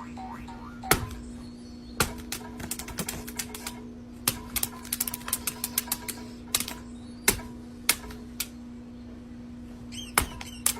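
Irregular sharp clicks and taps, some in quick runs, over a steady low hum.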